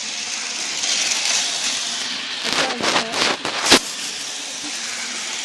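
Bachmann HO scale model train running on its track, a steady hiss of motor and wheels. A short cluster of knocks and clunks comes about two and a half seconds in, the loudest just before four seconds.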